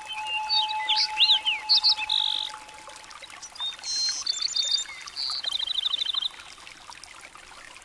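Birds chirping: scattered chirps, whistles and quick trills, among them a fast repeated trill a little past halfway. A held low note fades away in the first few seconds.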